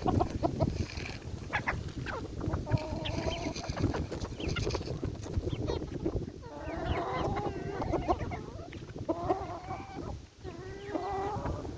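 Backyard chickens clucking, with several drawn-out calls, over a steady clatter of low knocks and rustling close to the microphone.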